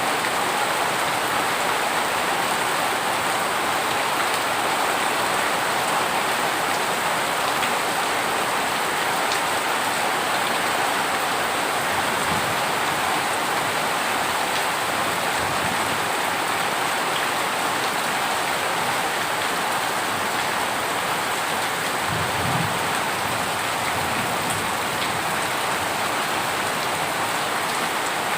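Heavy rain falling, a dense, steady hiss of drops on a surface. There are a couple of faint low rumbles about twelve and twenty-two seconds in.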